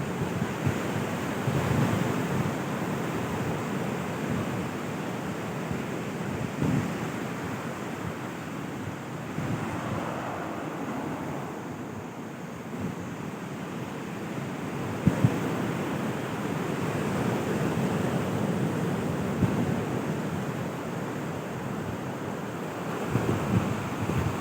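Sea waves washing onto a beach, swelling and easing every several seconds, with wind buffeting the microphone.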